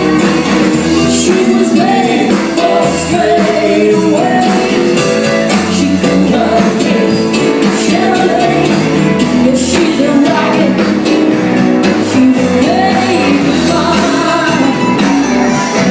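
Loud live band music with a woman singing over a steady beat.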